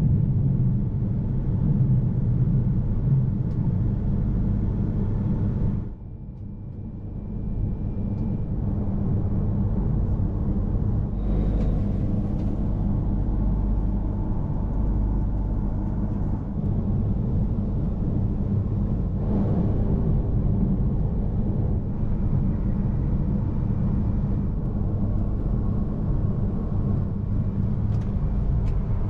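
E3 series Tsubasa Shinkansen train running at speed, a steady low rumble that drops briefly about six seconds in and builds back up.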